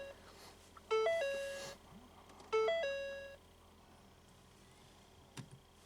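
A car's electronic warning chime, a short chime of a few stepped notes, sounding twice about a second and a half apart while the driver's door is open or the key is in the ignition.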